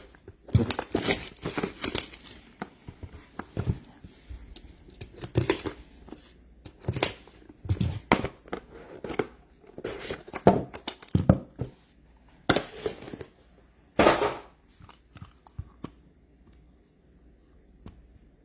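Plastic wrap and packaging being torn and crumpled as a sealed trading-card box is opened, in a run of irregular rustles and rips that thins out about three-quarters of the way through.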